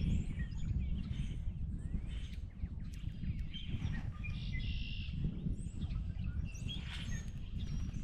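Wild birds chirping and calling, many short notes, over a steady low rumble.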